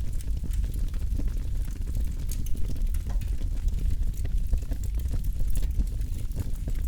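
Campfire burning with a steady low rumble and frequent small crackles and pops scattered throughout.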